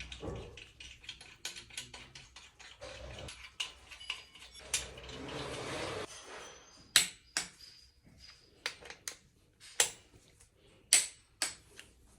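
Metal clicks, clinks and sharp knocks of hand tools and engine parts being handled during engine assembly, with a short hissing noise about five seconds in and several loud clacks in the second half.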